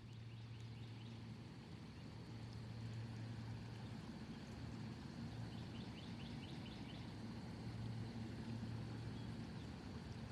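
Outdoor ambience: a steady low hum like distant traffic, with faint short bird chirps and a thin steady high buzz.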